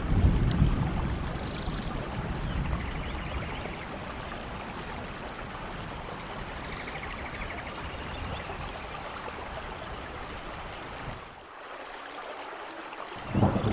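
Steady rain falling with a low thunder rumble, loudest at the start and swelling again near the end. Faint high chirps come through a few times.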